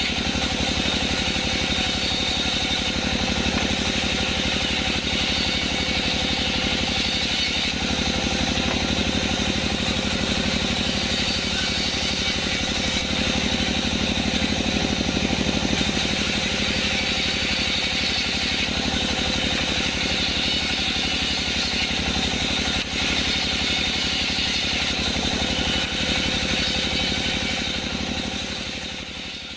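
Band sawmill machinery running steadily, a pulsing engine drone under a steady high whine, fading out near the end.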